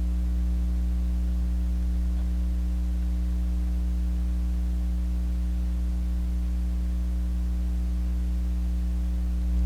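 Steady low electrical hum with several evenly spaced overtones, typical of mains hum in the recording.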